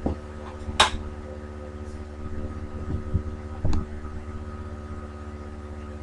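Steady low machine hum with several fixed tones, like a room fan or air conditioner, with a sharp click about a second in and a fainter one near the four-second mark.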